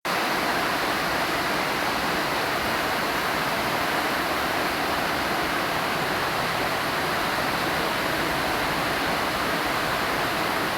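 Heavy rain falling, a steady even rushing hiss with no pauses.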